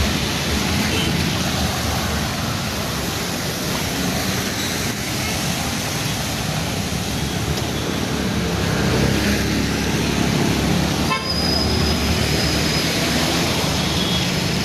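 Road traffic on a rain-flooded street: vehicle engines and a steady hiss of tyres and water. A thin high tone sounds for a few seconds in the latter part.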